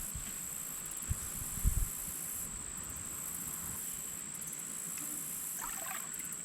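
Steady high-pitched drone of insects, typical of crickets, with a few soft low bumps around a second or two in.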